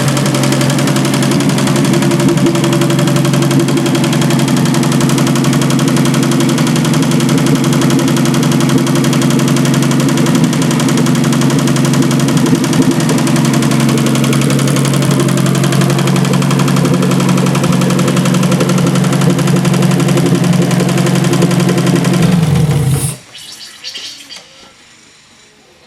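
Standard-Triumph inline six-cylinder engine running steadily, then shut off about 23 seconds in, running down and stopping within a second.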